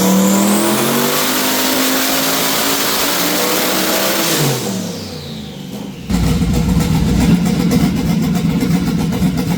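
Twin-turbo 427 LS V8 running on a hub dyno, its pitch climbing slowly with a high turbo whine above it. The engine lets off about four and a half seconds in, and the whine and engine pitch fall away together. About six seconds in, a louder, steady low rumble starts abruptly.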